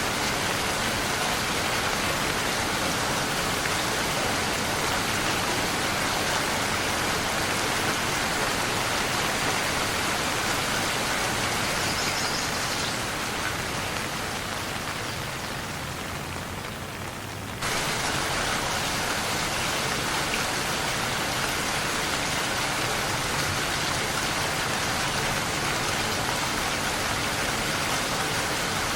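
Steady rain falling and pattering on surfaces, a dense even hiss. Just past the middle it softens for a few seconds, then comes back abruptly at full strength.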